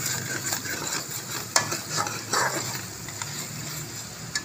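Steel spoon stirring chicken jalfrezi masala that sizzles in oil in a large metal pot, the spoon scraping and clicking against the pot now and then. The masala is fried to the stage where the ghee separates.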